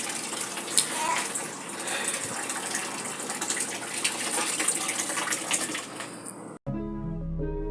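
Tap water running steadily, with small clatters, then cutting off suddenly near the end as pitched music with a melody starts.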